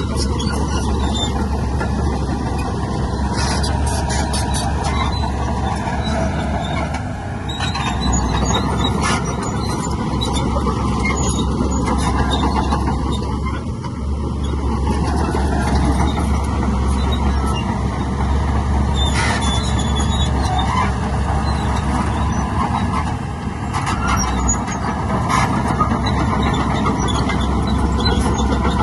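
Heavy diesel earthmoving machinery running steadily under load, with sharp clanks at intervals.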